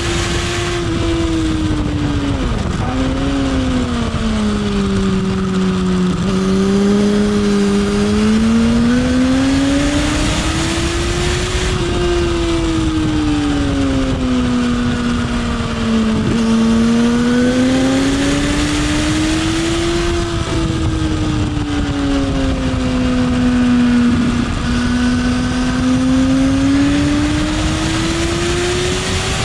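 Motorcycle engine heard on board at track speed, its note rising and falling smoothly every few seconds as the rider opens and eases the throttle, with a steady rush of wind noise underneath.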